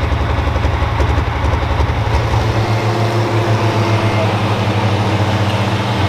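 Diesel engine of a turbocharged pro stock pulling tractor running loud and steady with a rapid firing beat. A little under halfway through, the deepest rumble drops away and a steady whine comes in.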